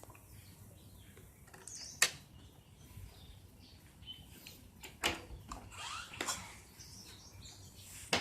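A few sharp knocks or clicks, about two, five and eight seconds in, over a quiet background with faint chirps.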